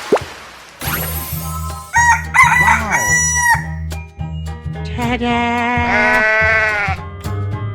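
A rooster crowing: warbling calls about two seconds in, then one long crow that bends down at its end, over background music with a steady repeating bass.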